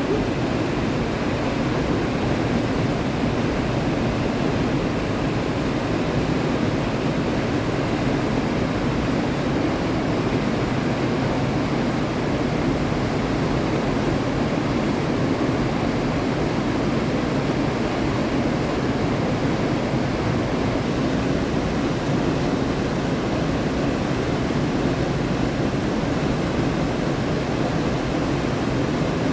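Steady, unbroken rush of running water, holding one level throughout with no rise and fall of waves.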